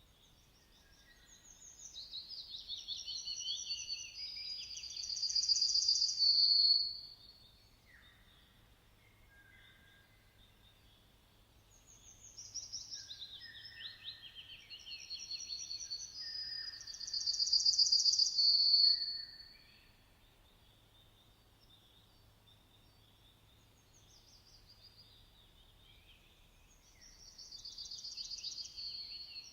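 A songbird singing the same high-pitched song phrase three times, each phrase getting louder and ending in a bright, rapid trill. The phrases come about every twelve seconds, with the third starting near the end.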